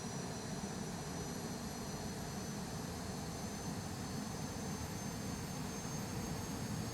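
Jet airliner in flight: a steady roar of engines and rushing air, with thin, steady high whines above it.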